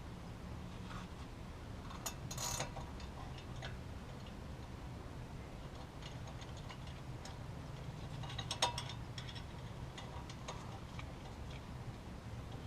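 Ratchet wrench clicking in short runs, with light metal clinks, while working a wheel hub's mounting bolts. Quick clusters of clicks come about two and a half seconds in and again near nine seconds, over a low steady hum.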